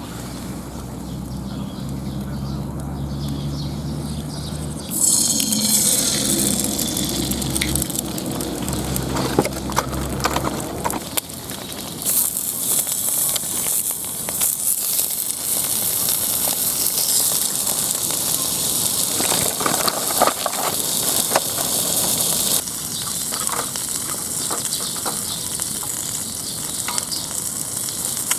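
Small wood fire in a pocket stove crackling, with many sharp pops over a steady hiss. A low steady hum underlies the first several seconds, and the sound changes abruptly a few times.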